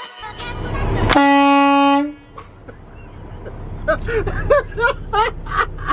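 A truck's horn blown once, a steady tone for about a second, rising out of the engine rumble. A few seconds later there are short voice-like sounds.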